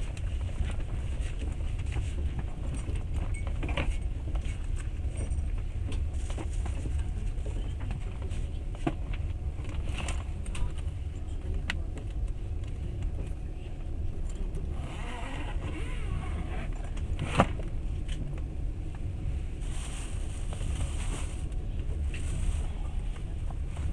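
Passenger train running, heard from inside the carriage: a steady low rumble with scattered clicks and knocks from the wheels and car, the sharpest knock about 17 seconds in.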